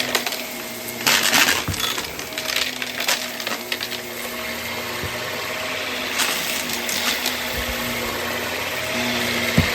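Vacuum cleaner running steadily while sucking up small hard debris, which rattles and clatters through it in bursts.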